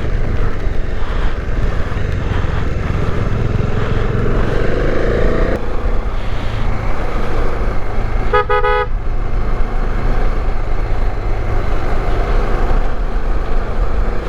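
Steady running noise of a Bajaj Dominar 400 motorcycle on the move, with one short, loud horn toot about eight seconds in.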